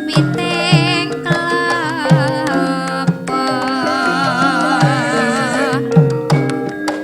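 Javanese gamelan music: sustained ringing metallophone and gong tones, with regular kendang drum strokes and a voice singing with a strong wavering vibrato.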